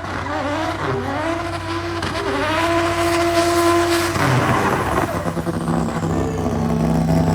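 Single-turbo diesel Mercedes 123 race car engine revving hard, its pitch climbing and falling, held high for about a second and a half, then dropping suddenly and settling on a lower steady note.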